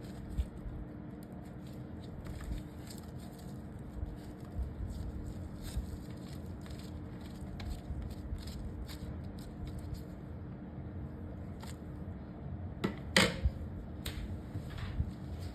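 A bar of soap being shredded with a blade: soft scrapes and small crisp crunches, with a louder burst of crunching about 13 seconds in.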